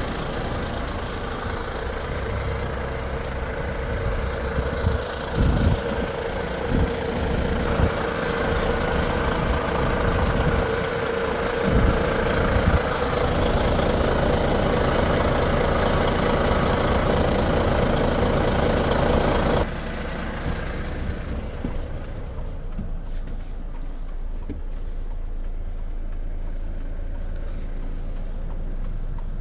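Volvo FH 500 truck's 13-litre six-cylinder diesel idling steadily, with a few sharp knocks in the first half. About two-thirds of the way through the sound suddenly becomes quieter and duller.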